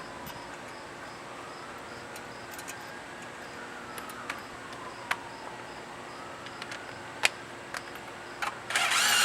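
Scattered light metallic clicks and taps of hand tools and parts as the secondary clutch bolt is put back in, over a steady low hum. A louder rushing noise builds in the last second or so.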